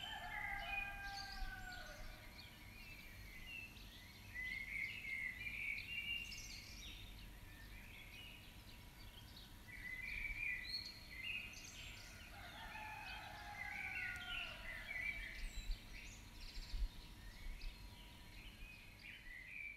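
Birds chirping and singing, with several calls overlapping in spells and some short falling whistled phrases, over a faint steady hiss.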